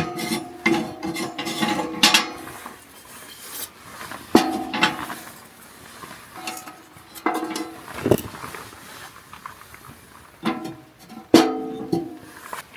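Metal camp cookware being knocked and clinked, each strike ringing briefly with a metallic tone. The knocks are loudest in clusters at the start and near the end.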